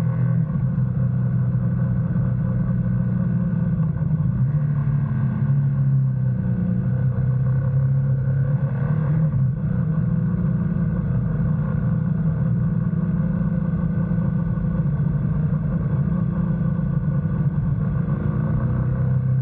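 BMW GS motorcycle engine running while riding, at a steady engine speed with little change in pitch.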